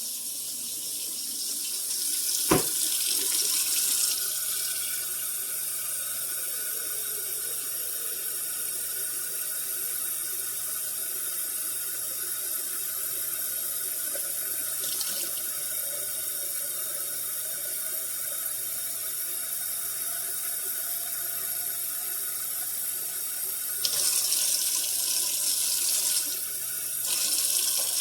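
Kitchen tap running steadily into the sink, filling a coffee-maker carafe with water up to the 10-cup mark. The flow gets louder briefly near the start and twice near the end, and there is a single sharp knock about two and a half seconds in.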